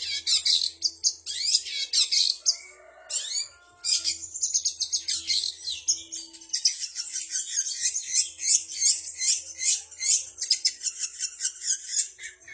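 Long-tailed shrike (cendet) singing a fast, near-continuous run of high chirps and trills, a mimicry medley of bulbul, canary, sparrow and prinia calls, with a brief pause a little after three seconds.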